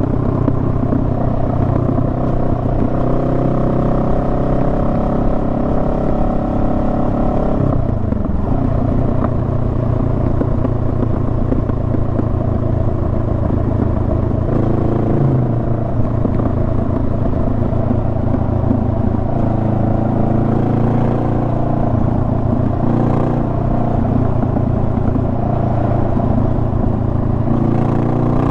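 Honda Rebel 500's parallel-twin engine running under way, with a low wind rumble. Its pitch climbs slowly, drops sharply about eight seconds in, then holds fairly steady.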